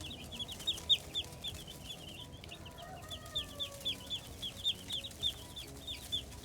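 Cornish cross chicks peeping continuously: a rapid run of short, high, downward-sliding peeps, several a second.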